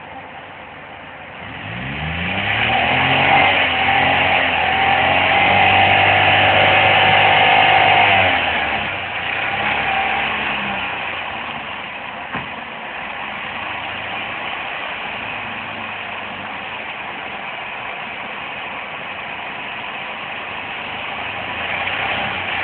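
Car engine revved up about two seconds in, held at high revs for several seconds, then dropping back; after one shorter blip it settles into a steady idle.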